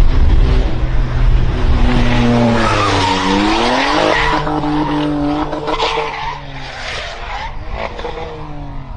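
A car engine running hard under tyres squealing and skidding. It is loud throughout, with pitch sweeping down and back up a few seconds in, and it eases off somewhat in the last few seconds.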